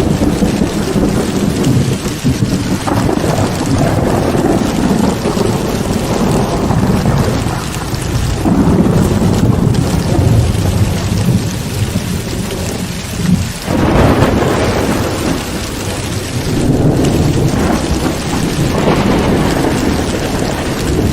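Heavy rain falling steadily during a thunderstorm, with deep rolls of thunder that swell and fade several times, one rumble breaking in sharply about two thirds of the way through.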